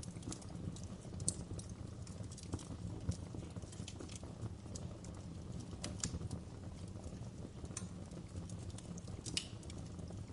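Wood fire crackling in a fireplace: a steady low rumble of the flames with irregular sharp pops and snaps from the burning logs.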